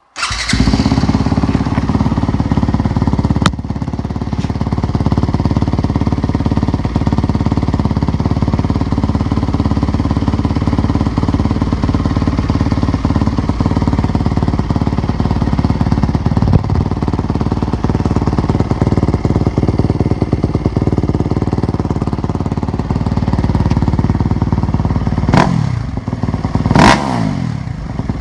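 Yamaha YZ250FX four-stroke single-cylinder enduro engine through a Dubach Racing NS-4 exhaust, firing up at once and idling steadily, then revved quickly twice near the end.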